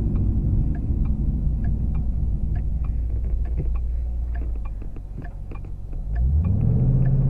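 2014 Shelby GT500's supercharged 5.8-litre V8 running, heard from inside the cabin. It settles lower and quieter about five seconds in as the car slows for the turn, then rises in pitch and loudness as the car accelerates away near the end. Faint light ticks run through it.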